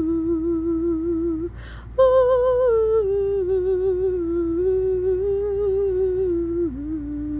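A woman humming a slow, wordless melody unaccompanied, holding long notes with light vibrato. It pauses for a quick breath about one and a half seconds in, then comes back louder.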